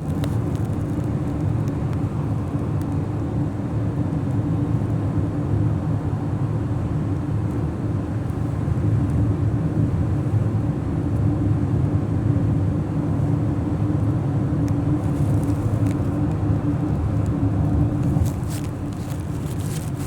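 Steady low rumble of a running car, with a steady hum through it; a few light clicks near the end.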